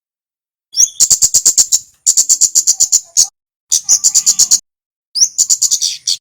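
Kemade (kemlade) bird calling: four bursts of rapid, sharp, high-pitched chips, each about a second long at roughly ten chips a second, separated by short silences.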